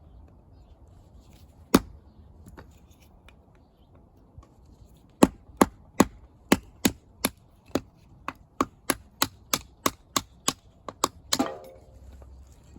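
Firewood being chopped into kindling: a single sharp chop, then after a pause a quick run of about twenty chops at two to three a second. The last one rings briefly.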